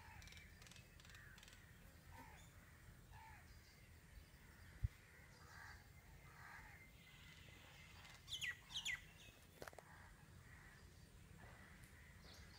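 Quiet outdoor ambience with faint, scattered bird calls; two sharper, falling calls come about eight and a half seconds in, and a single knock sounds just before the five-second mark.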